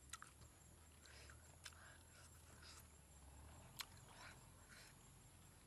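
Faint chewing with lips closed: soft wet mouth noises with a few sharp clicks, about four in all.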